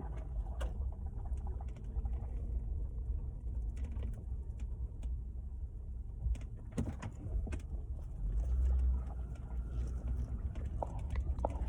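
Car moving slowly, a steady low rumble heard from inside the cabin, with scattered clicks and knocks and a light ticking near the end.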